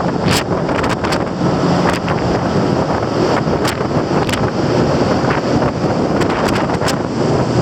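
Strong wind buffeting the microphone aboard a ferry, in rapid gusts, with the ship's low steady hum underneath.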